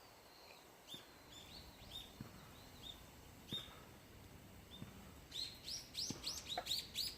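Small birds chirping: short high notes, scattered at first, then a quick run of chirps in the last two seconds.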